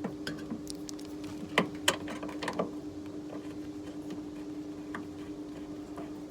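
A steady machine hum throughout, with a handful of sharp clicks and knocks in the first three seconds.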